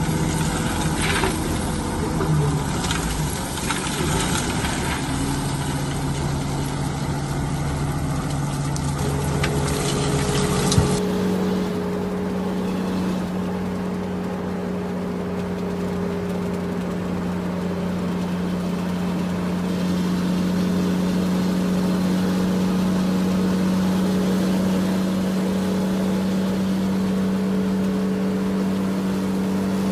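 Heavy construction machinery engines running steadily. About eleven seconds in, the sound cuts to a different engine holding a steady drone.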